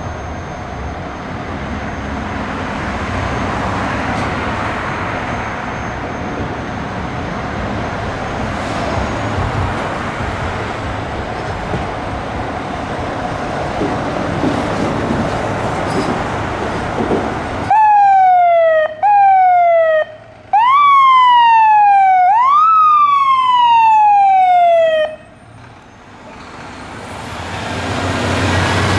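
Fire engine responding: steady road and engine noise, then about two-thirds of the way in the electronic siren sounds loudly for about seven seconds in repeated sweeps that rise quickly and fall slowly. A new rising siren tone starts near the end.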